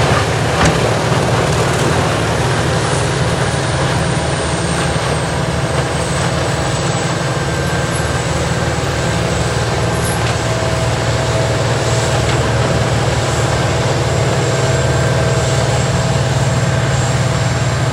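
Large tracked horizontal grinder running steadily, its diesel engine a loud even drone with a thin high whine above it.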